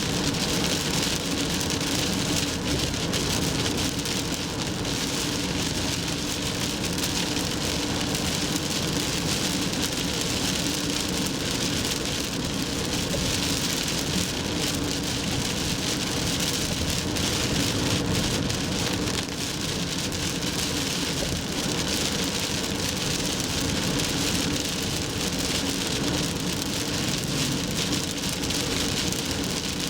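A car driving through heavy typhoon rain: a steady hiss of rain and tyres on the wet road, with a low steady drone underneath.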